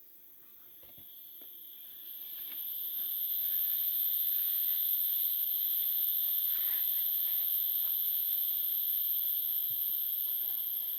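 Forest insects calling in a steady, high-pitched drone that swells up over the first few seconds and then holds, with a few faint small clicks.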